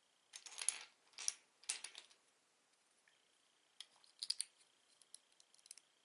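Loose plastic Lego pieces being handled: three short rattling clatters in the first two seconds, then a pause and a run of small light clicks.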